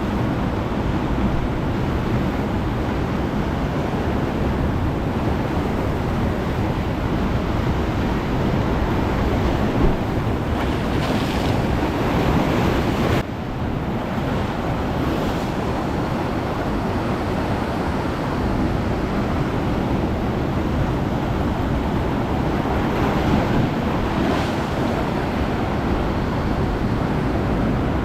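Ocean surf washing onto a beach in a steady, fairly loud rush, with wind buffeting the microphone. The sound breaks off abruptly for a moment about halfway through.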